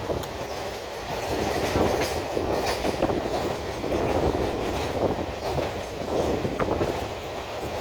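Suburban electric local train running at speed, heard from inside a coach: a steady rumble of the carriages with scattered clicks of the wheels over rail joints.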